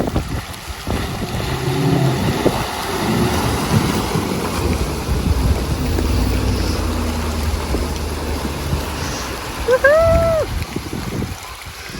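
Chevrolet Suburban towing a camper, driving through muddy water with the engine rumbling and tyres sloshing and splashing. A short rising-then-falling tone sounds about ten seconds in.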